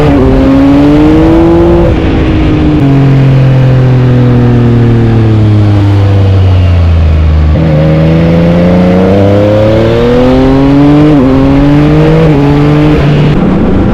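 Yamaha MT-09's 890 cc inline three-cylinder engine pulling hard with a quick upshift near the start, then rolling off with the revs falling slowly for several seconds. Past the middle the revs jump up at a downshift and the engine accelerates again, with three quick upshifts near the end, over a steady rush of wind.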